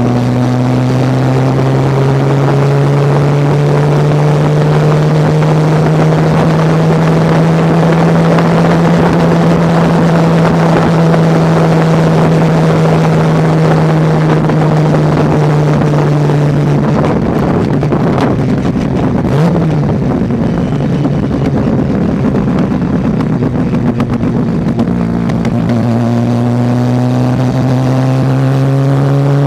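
Mazda RX-7 race car's rotary engine running at steady, moderate revs, its pitch drifting slowly. For several seconds past the middle the steady note breaks up into a rougher sound, then settles back to a steady pitch.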